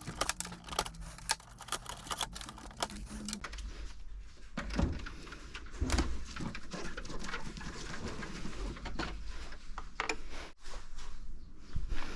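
Scattered clicks and knocks of a Samsung Q9000 air conditioner's plastic parts being handled during disassembly, with a few dull thumps about five seconds in.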